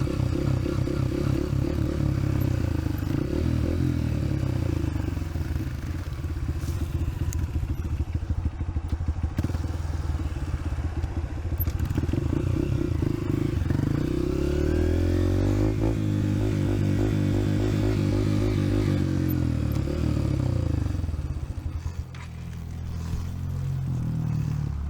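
Dirt bike engine running under way, its pitch rising and falling with the throttle. It holds a steady higher note through the middle, then eases off near the end.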